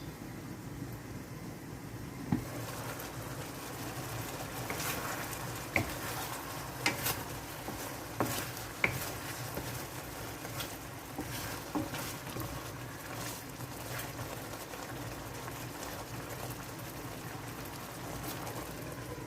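Chicken wings stewing in sauce in a pan, bubbling steadily, with a few sharp knocks of a utensil against the pan as it is stirred.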